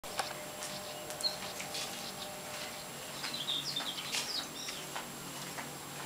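Small birds chirping outdoors: short high chirps scattered through, thickest about three to four seconds in, over a steady hiss, with a few faint clicks.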